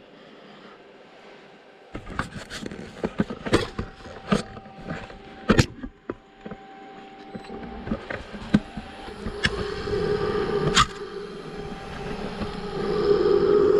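Woodturning lathe cutting a poplar blank with a turning tool. Irregular sharp knocks and scraping come through the first half, then a steady hum builds and grows louder in the last few seconds.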